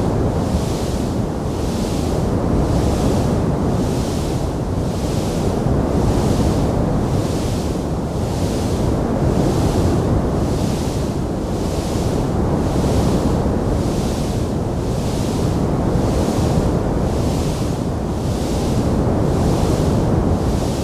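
Wood fire burning in a stone fireplace: a steady low rushing roar, with a high hiss that swells and fades about once a second.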